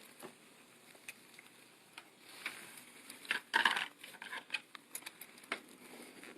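A key being tried in a front door lock: scattered small clicks and scrapes, with a louder rattle of metal about three and a half seconds in.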